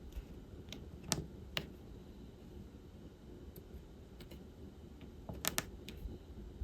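Light, irregular clicks and taps of diamond painting work: small plastic resin drills being picked up and pressed onto the canvas with a drill pen, with a close pair of louder clicks about five and a half seconds in.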